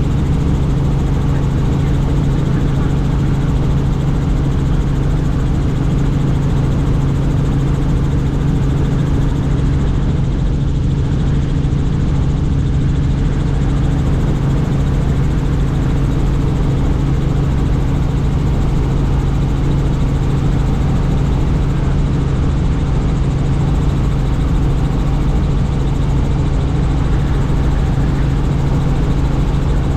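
Helicopter in flight: a steady, unchanging drone of rotor and turbine engine, with a strong low hum under a broad rushing noise.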